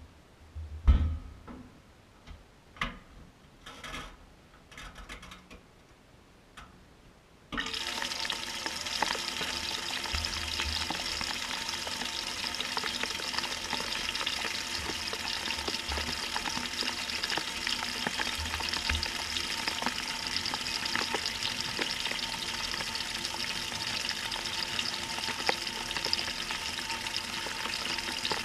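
A few knocks and clicks, then about seven seconds in water suddenly starts rushing into the Maytag washer's tub as the fill begins: a steady hissing spray, heard from inside the tub.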